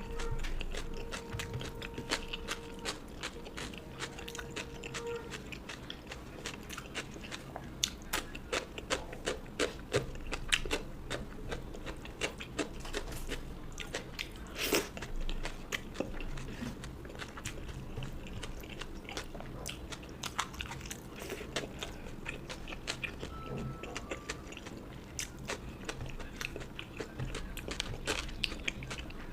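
Close-miked eating: a person chewing and biting into mouthfuls of fish curry, rice and fried vegetables, with many short crunching clicks and wet mouth sounds. A faint steady hum runs under the first few seconds.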